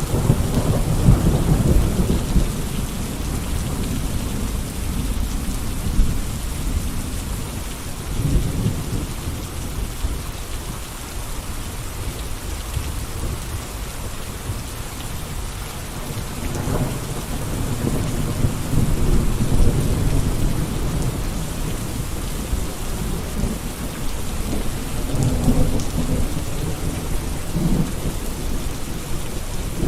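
Steady rain falling, an even hiss of drops, under a low rumble that swells and fades several times.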